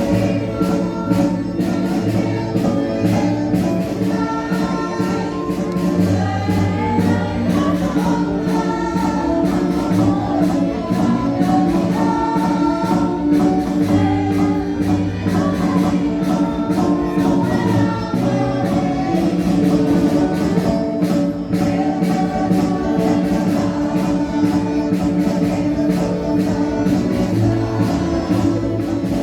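Marcha popular: a chorus of voices singing a march tune over band accompaniment with a steady beat.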